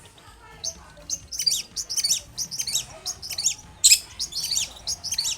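Long-tailed shrike (cendet) singing: a fast, dense run of sharp, high chirps and short down-slurred notes that starts about a second in.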